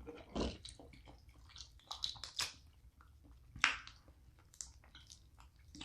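Close-up eating sounds of a seafood boil: wet chewing, lip smacks and the odd crack of snow crab shell, in short scattered bursts.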